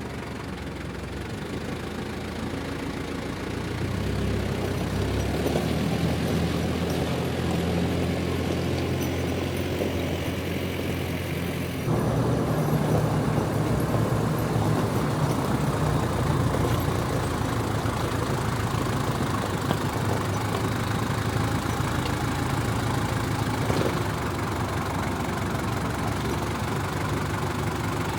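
Tractor engine running steadily, its note rising about four seconds in as it is worked, with an abrupt change in the sound about twelve seconds in.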